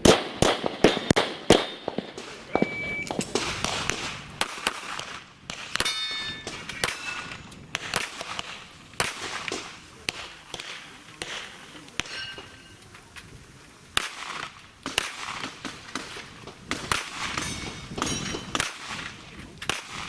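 Handgun shots fired in quick strings: a rapid run of shots in the first two seconds, then more shots in pairs and short bursts throughout. A few shots are followed by a brief ringing tone.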